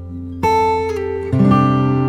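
Acoustic guitar music: sustained plucked notes, with new notes coming in about half a second in and again past the middle.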